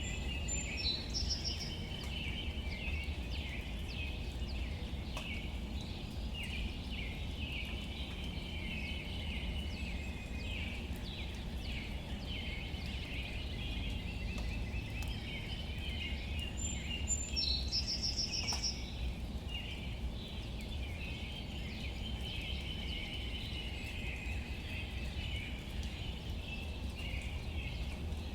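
Light rain falling on leaves under a continuous chorus of small chirping calls, over a steady low rumble. A quick high bird trill cuts through twice, about a second in and again about 17 seconds in.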